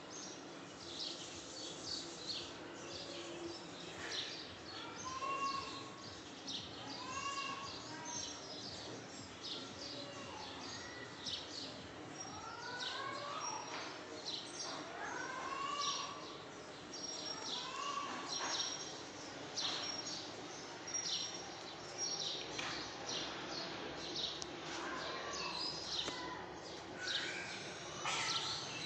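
Birds chirping over a steady outdoor background hiss: many short, high chirps mixed with lower calls that rise and fall, repeated every second or two.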